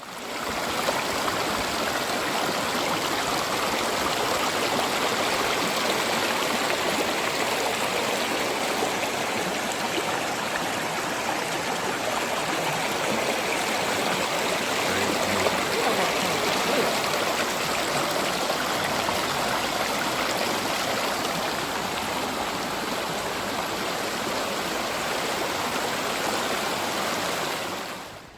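Stream water rushing steadily, a continuous even hiss, fading out near the end.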